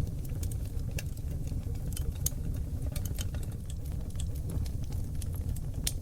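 Wood fire of oak logs burning in a fireplace: a steady low rumble of the flames with irregular sharp crackles and pops, a few louder snaps about two seconds in and near the end.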